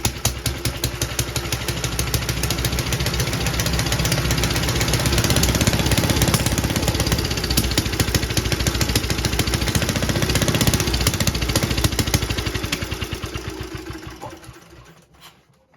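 JAP Model 5 single-cylinder stationary engine running with a rapid, even firing beat, then dying away and stopping as it is shut off near the end.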